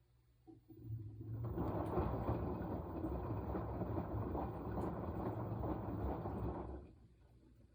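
Washing machine running a wash stroke: a dense churning sound builds up about a second in, holds for about five seconds and stops near the end, with quiet pauses either side.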